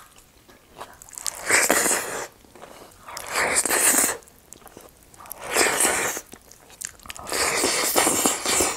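Close-miked eating sounds of a person chewing a mouthful of rice and vegetables, with crunching, in about four bursts separated by short pauses.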